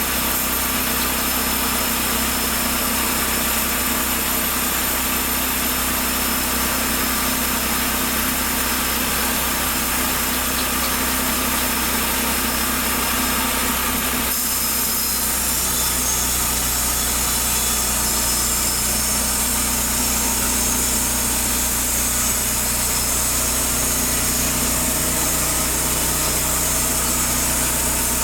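Petrol engine of a Taiga T-1B band sawmill running steadily; about halfway through, the tone of the running changes.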